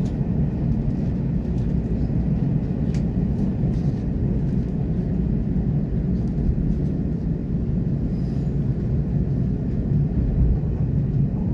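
Steady low running noise of a passenger train heard from inside the carriage, with a few faint clicks.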